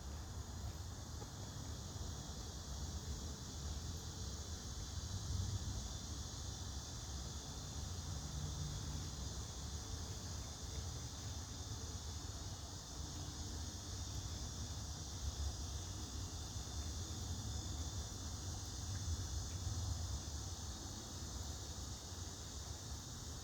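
Steady chorus of summer insects such as crickets, with a low rumble of wind or handling noise on the microphone.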